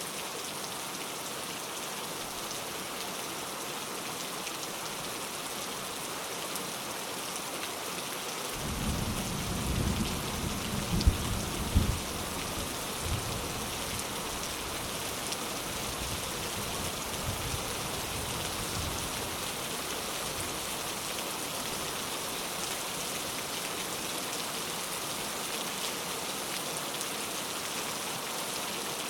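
Steady rain throughout, with a roll of thunder starting about eight seconds in: a low rumble that builds, two sharp cracks near eleven and twelve seconds, then rumbling that dies away over the next several seconds.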